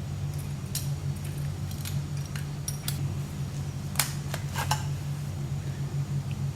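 Steel parts of a Fedorov Avtomat rifle clicking and clinking against each other as they are handled and fitted during reassembly, a handful of separate sharp clicks, the loudest a little past halfway, over a steady low hum.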